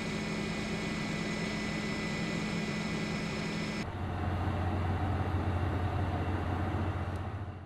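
Steady mechanical hum, like an engine running. About four seconds in it cuts abruptly to a different, lower steady hum.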